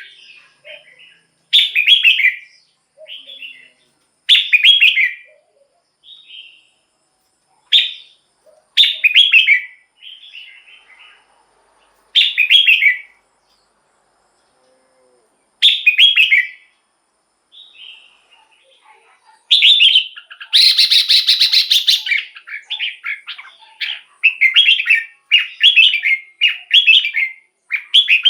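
Red-whiskered bulbul singing: short warbled phrases every second or two with pauses between them. About two-thirds of the way through comes a dense, rapid chattering stretch, followed by a quicker run of phrases.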